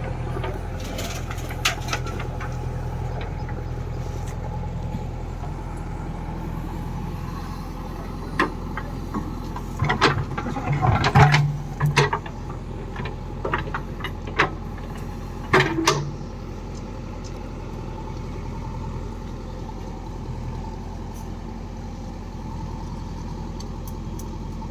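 Diesel engine of farm machinery running steadily, with a cluster of knocks and clatter between about eight and sixteen seconds in.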